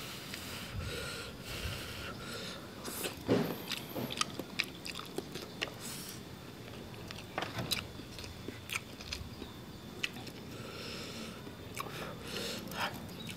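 Mukbang eating sounds: chewing and biting on a whole cooked eel with rice, with irregular small crunches and clicks as he picks the meat apart with his fingers.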